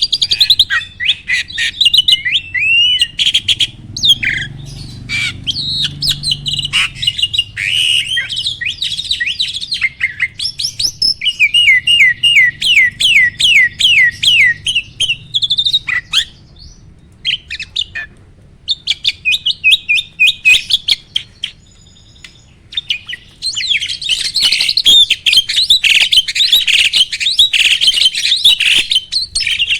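A jalak (starling) singing a long, varied song of rapid chirps, whistled rising and falling notes and trills, with a brief lull about two-thirds of the way through and a dense burst of chatter near the end.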